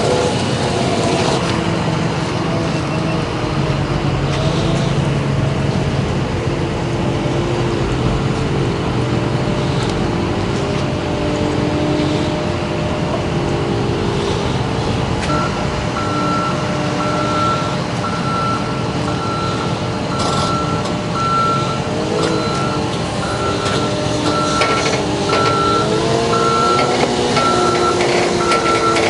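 Diesel engine of a heavy yard vehicle running, its pitch shifting now and then as it is worked. From about halfway a reversing alarm beeps steadily, a little more than once a second.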